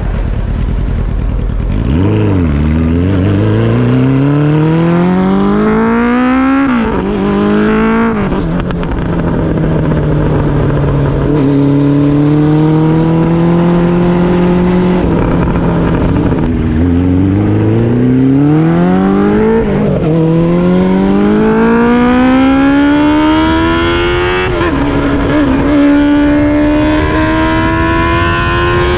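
Honda CB400 Super Four inline-four motorcycle engine through an aftermarket Rombo exhaust, accelerating through the gears. The note climbs and then drops at each upshift, holds a steady cruise for several seconds mid-way, then dips and climbs again through further upshifts.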